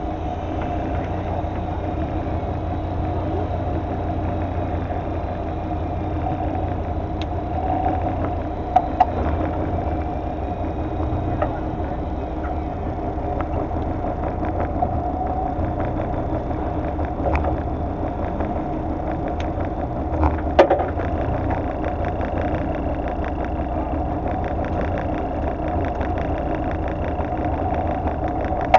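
Fishing boat's engine running steadily, with a few sharp clicks or knocks, one around a third of the way in and one about two-thirds in.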